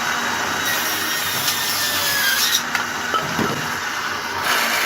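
Table saw running with a 7 1/4-inch thin-kerf circular saw blade, cutting through wood quickly.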